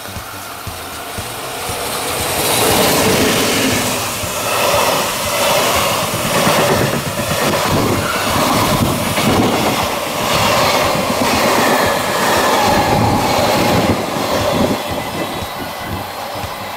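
Container freight train hauled by an electric locomotive passing close by, its wheels clattering in a steady rhythm over the rail joints. The noise builds over the first two seconds, holds loud as the wagons go by, and eases off near the end as the last wagon passes.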